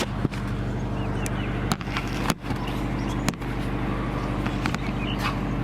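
Scion FR-S's 2.0-litre flat-four idling steadily, with a cricket-like chirping over it that the owner puts down to a defective high-pressure fuel pump. A few sharp clicks stand out.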